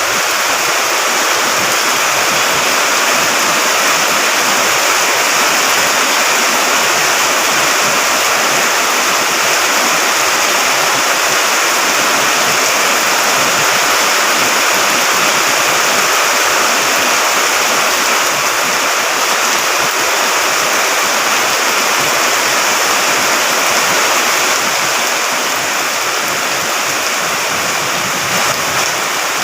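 Water rushing steadily and loudly, like a stream swollen by continuous rain.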